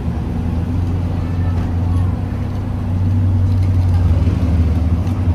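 A vehicle engine running steadily at low revs in street traffic, getting louder about three seconds in.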